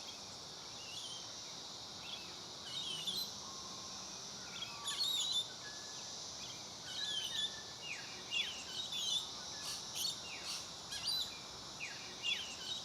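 Several wild birds calling: short chirps and quick downward-sweeping notes, repeated irregularly and growing busier in the second half, over a steady high drone of insects.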